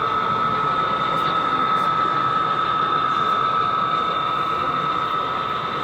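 Steady room noise of a busy exhibition hall, with a constant high-pitched whine over it.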